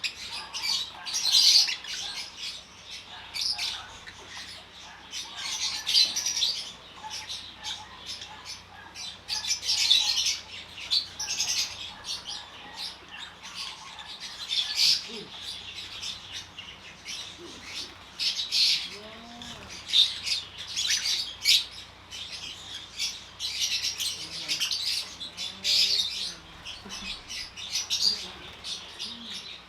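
A flock of African lovebirds calling, with shrill, high-pitched squawking chatter in repeated bursts every second or two.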